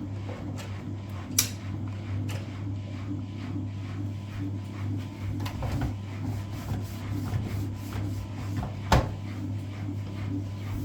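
Front-loading washing machine running a wash cycle: a steady motor hum with irregular small clicks and knocks from the tumbling drum, and two sharper clicks, one about a second and a half in and one near the end.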